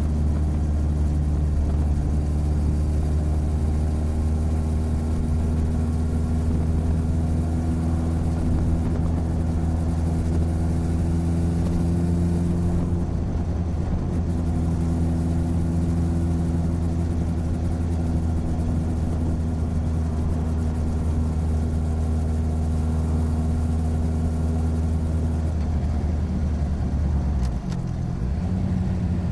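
Motorcycle engine running steadily at cruising speed, heard from a recorder mounted on the side of the bike. Near the end the engine note dips briefly and then picks up again.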